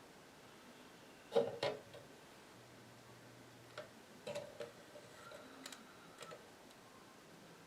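Scattered small clicks and taps from handling tools and parts at the workbench. The two loudest come close together about a second and a half in, followed by a run of lighter ticks.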